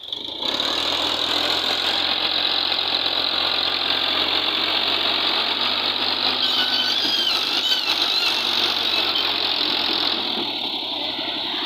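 Diesel tractor engines running loudly and steadily, cutting in abruptly at the start. A wavering high whistle rises over the engine noise from about six and a half to eight seconds in.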